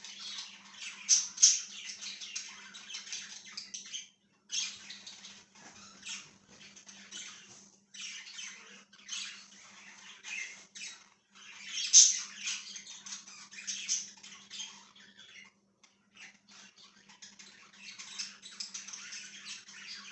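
A flock of pet budgerigars chattering, with dense high-pitched chirps and squawks in bursts broken by short pauses; one sharp squawk stands out about twelve seconds in. A faint steady low hum runs underneath.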